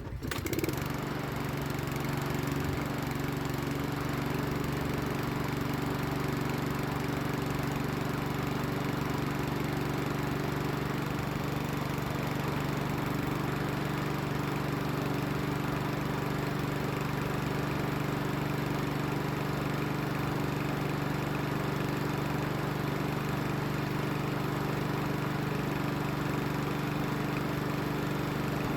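Mountfield SP185 petrol lawnmower engine catching and then running at a steady, even speed. It runs with its carburettor bowl cleaned of gunk and a fresh tank of fuel, the fix for its failure to start.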